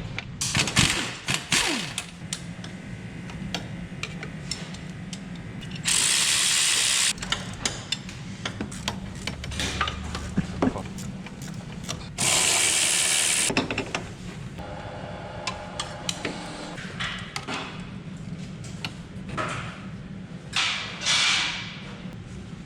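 Hand tools working on a Toyota Yaris engine during disassembly: scattered ratchet clicks and metal clinks and knocks. Twice, about six seconds and about twelve seconds in, there is a loud hiss lasting a second or so.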